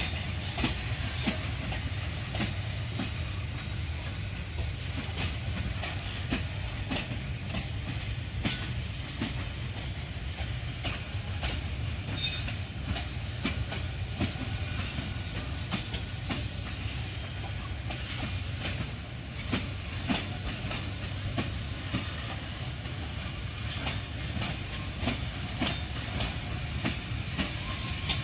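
Freight train wagons rolling past steadily, a low rumble with continual clickety-clack of wheels over the rail joints and a couple of brief high wheel squeals.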